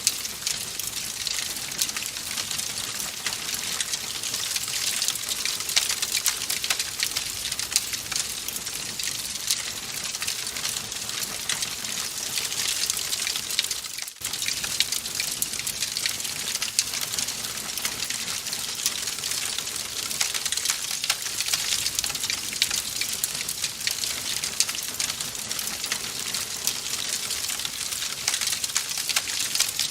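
Wood fire crackling in a fireplace: a steady hiss thick with small, rapid pops and snaps, and a momentary drop in level about halfway through.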